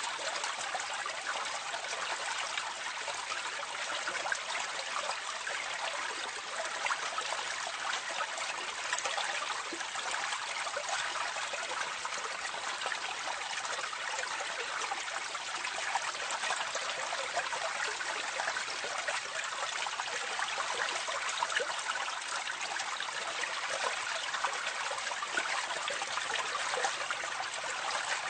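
Water running steadily into a drain or gully, recorded close up: a continuous splashing trickle with fine crackling droplets and no pauses.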